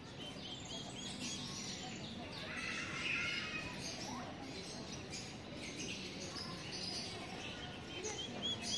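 Many small birds chirping and twittering throughout, a dense mix of short high notes, with a low background hum of the surroundings.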